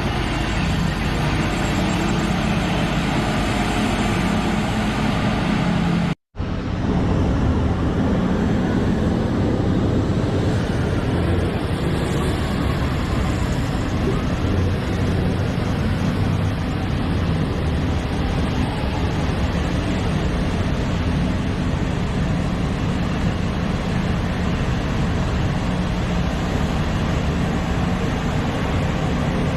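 Liebherr excavator's diesel engine running steadily under work, a loud continuous machine rumble. It cuts out for a split second about six seconds in, then carries on.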